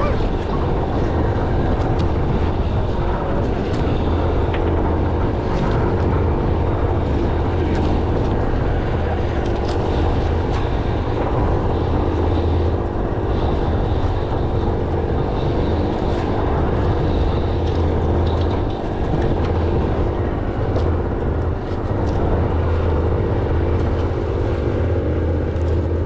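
An engine running steadily with a low hum, over a constant noisy wash, with a few faint clicks scattered through.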